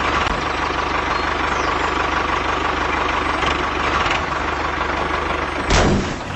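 Engine of a home-built farm tractor running steadily. Near the end there is a short, loud thump.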